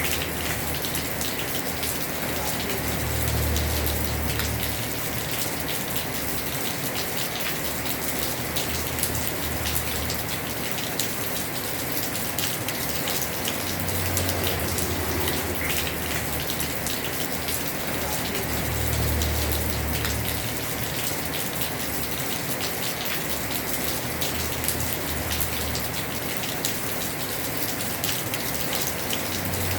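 Heavy rain falling on a house roof: a steady hiss thick with the ticks of individual drops. A low rumble swells and fades several times.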